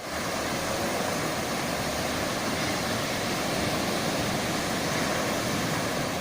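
Rough sea surf churned up by a strong thunderstorm: waves breaking and washing in as a steady rushing noise.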